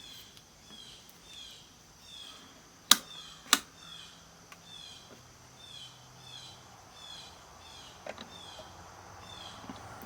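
Two sharp clicks about half a second apart, about three seconds in, from the analog multimeter's rotary selector switch being worked. Underneath, a faint high chirp repeats about twice a second.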